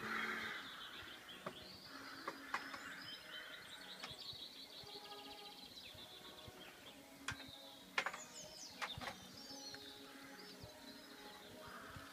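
Several small birds singing and chirping, with fast trills and short sharp calls, faint.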